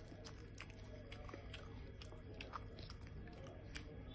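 A person chewing a mouthful of egg burger close to the microphone, with many small irregular mouth clicks, over a steady low hum.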